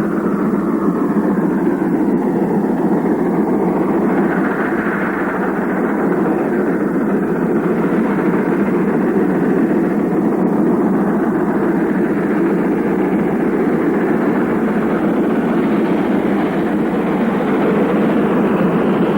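Steam locomotive working under load, a steady, dense exhaust sound that grows a little harsher near the end.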